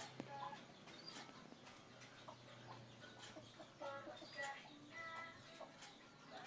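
Faint, scattered short animal calls, clucking and chirping, with a few small clicks.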